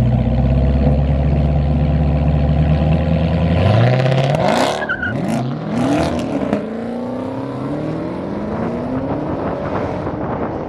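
Race cars held at steady revs on the start line, then launching hard about four seconds in: engines climb through the gears with quick drops in pitch at each shift and a loud rush as they pull away, then several rising engine notes carry on down the track.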